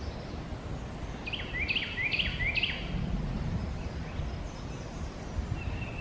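Carolina wren singing: one quick run of four repeated whistled notes about a second in, over a steady low rumble.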